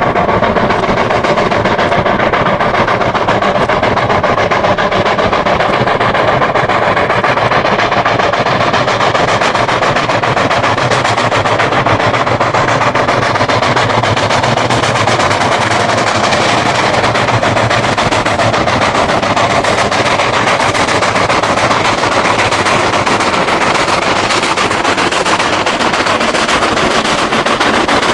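Steam locomotive running, a loud, steady, rapid chatter of exhaust beats and mechanical clatter that does not let up.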